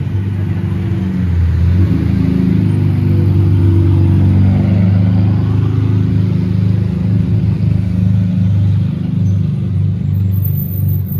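Car engine and exhaust running loud and low-pitched, swelling about a second in and then holding fairly steady.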